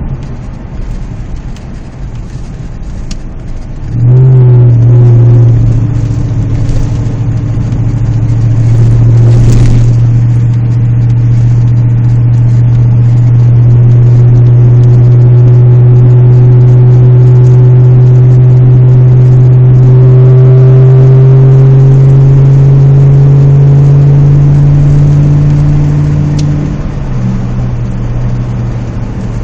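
Exhaust of a 2006 Jeep Grand Cherokee's 5.7-litre Hemi V8, with the resonator deleted and a custom side exhaust, heard inside the cab while driving. About four seconds in, the exhaust note suddenly gets louder into a steady deep tone that climbs slowly in pitch. Near the end it drops back quieter.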